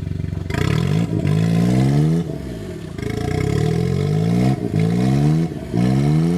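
Suzuki Jimny JA11's engine revving in repeated bursts of throttle: it settles briefly about half a second in, then climbs in pitch about five times, dropping back between each climb.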